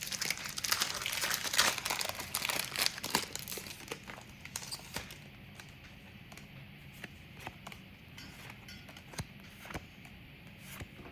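Trading card pack wrappers being torn open and crinkled, dense and loud for about the first four seconds, then dropping to scattered light clicks and taps.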